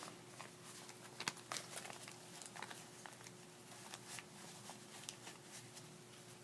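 Faint rustling of paper bills and cards being handled and sorted, with scattered light clicks and crinkles.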